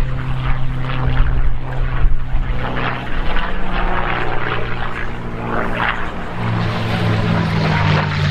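Piston engines of a propeller-driven warbird droning steadily as it flies past, the engine note shifting in pitch about two-thirds of the way through. Wind buffets the microphone throughout.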